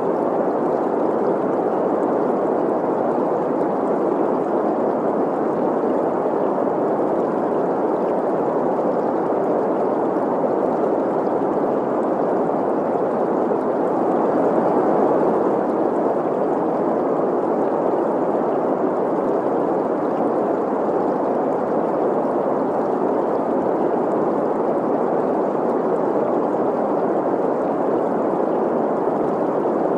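Steady green noise, a constant hiss centred in the middle range, blended with the running water of a babbling stream. It stays level throughout, with no breaks or distinct events.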